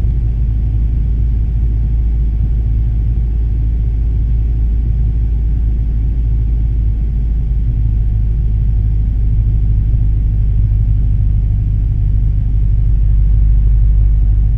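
Cessna 172 Skyhawk's four-cylinder piston engine and propeller running with a steady low drone, growing slightly louder near the end.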